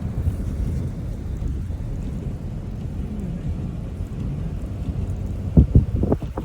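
Car driving, a steady low rumble of engine and road noise heard inside the cabin, with a few short, louder thumps near the end.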